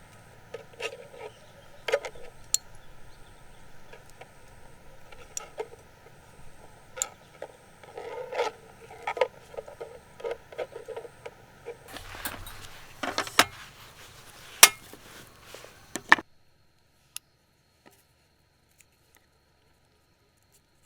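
Scattered clicks, taps and knocks of objects being handled, busier for a few seconds past the middle, then cutting off suddenly to near silence with only a few faint ticks.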